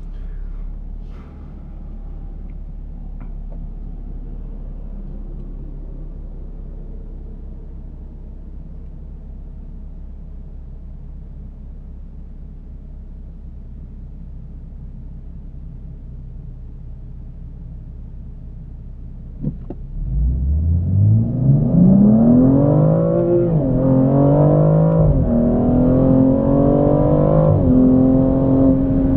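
BMW M235i's 3.0-litre turbocharged inline-six with M Performance exhaust, heard from inside the cabin. It idles steadily at first, then a click comes about two-thirds of the way in. Under full acceleration the engine note then climbs, drops back at each of about three upshifts, and settles into a steady cruise near the end.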